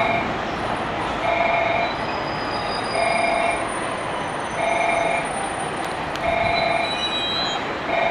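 A train moving in the station, with a steady rumble and faint high wheel squeals. Over it, a short two-tone electronic signal repeats about every second and a half.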